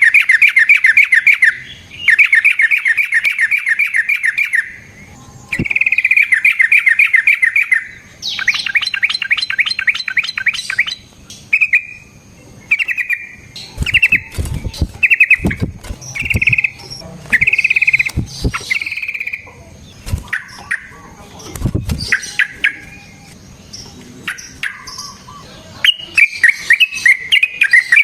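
Yellow-vented bulbul (trucukan) singing loud, rapid trilled phrases: long rolling runs in the first ten seconds or so, then a string of short chirped phrases about one a second, and another fast run near the end. A few low thuds sound in the middle.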